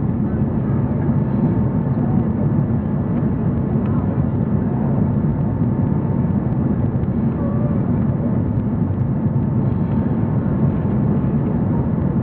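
Steady low drone inside the cabin of a four-engine Airbus A340-300 on its landing approach: engine and airflow noise heard through the fuselage, unchanging in level.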